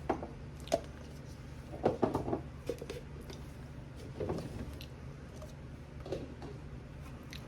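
Drinking glasses being set onto a kitchen cabinet shelf one after another: several light clinks and knocks at uneven intervals, some ringing briefly.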